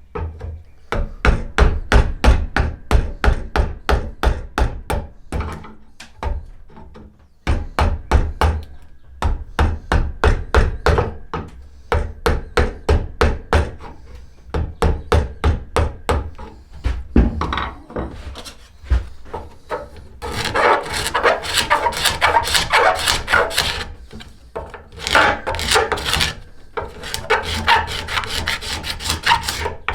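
A hand tool scraping wood on a yew bow stave in quick repeated strokes, about three a second. About two-thirds of the way through they turn into longer, harsher strokes.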